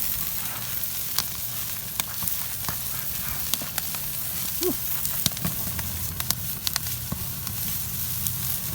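Wood campfire crackling under chicken wings sizzling on the grill grate: a steady hiss broken by many sharp pops.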